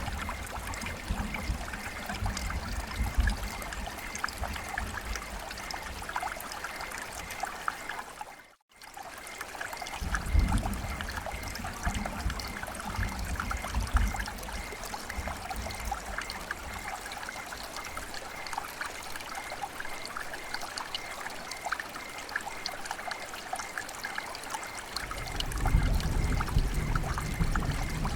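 Rain falling with running water trickling and splashing, a dense patter of drops over a steady wash. The sound cuts out for a moment about eight and a half seconds in, and a low rumble swells up near the end.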